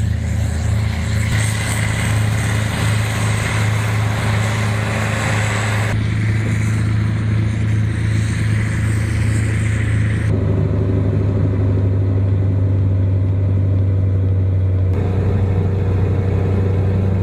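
Heavy diesel engine of a rotary snow-milling machine running steadily, a deep continuous hum, with a hiss over the first six seconds. The sound changes abruptly about six, ten and fifteen seconds in, as if cut between shots of the machines.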